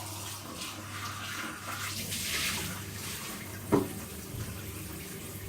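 Water running from a tap in a steady hiss, with one short sharp knock or clink a little past halfway.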